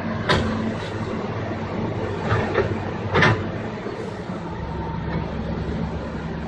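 Heavy diesel engine of an excavator running steadily, with several sharp metallic clanks, the loudest about three seconds in. A deeper low rumble sets in near the end.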